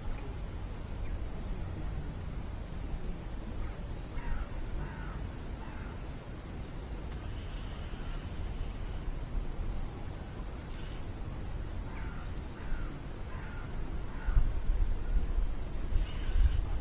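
Birds calling on the riverbank: short high chirps and little trills repeating every second or two, with a few lower falling calls, over a low rumble that grows louder about fourteen seconds in.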